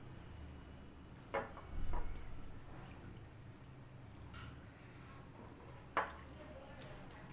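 Wet eating sounds: a few short, moist smacks and squishes of someone eating rice and moong dal, over a low steady hum.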